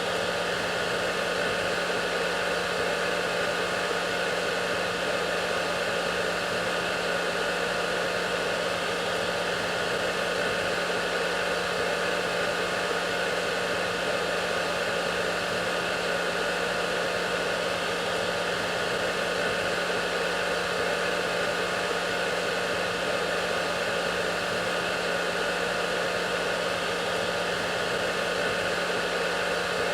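Hair dryer running steadily: a continuous airy blowing noise with a steady low hum from its motor, unchanging throughout.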